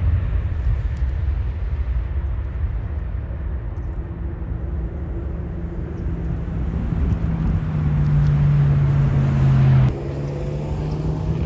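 Jet airliner engines rumbling low and steady, with a low hum that grows louder over a few seconds and then drops off sharply about ten seconds in.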